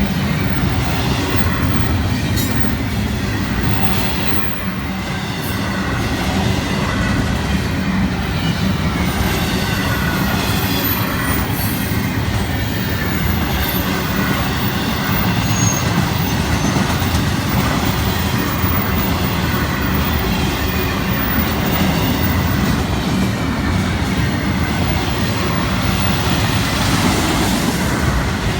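Florida East Coast Railway intermodal freight train rolling past: a steady rumble of wheels on the rails, with clicking over the rail joints and a faint squeal from the wheel flanges.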